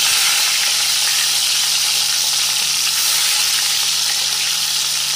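Masala-coated chicken pieces shallow-frying in hot sunflower oil in a frying pan: a loud, steady sizzle as the skin crisps.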